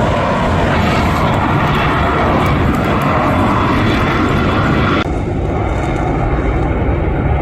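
Jet roar of Blue Angels F/A-18 Super Hornets flying past, a loud, dense rumble. About five seconds in, the upper hiss cuts off suddenly and a lower rumble carries on.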